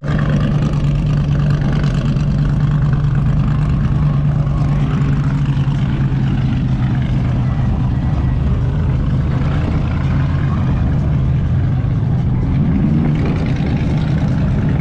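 A vehicle engine running at a steady speed, with a brief rise in revs near the end.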